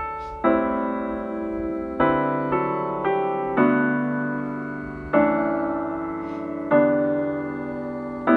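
Piano intro of an instrumental backing track: soft chords struck about every one to one and a half seconds, each ringing and slowly fading, with no voice yet.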